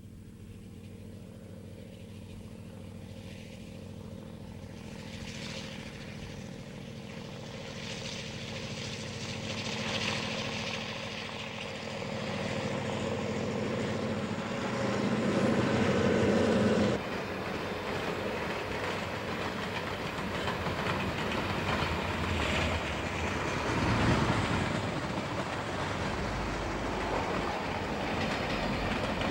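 A diesel locomotive's engine drones steadily and grows louder as the train approaches. Just past halfway the engine sound cuts off abruptly, giving way to the rattle and clickety-clack of the train's cars rolling past over the rail joints.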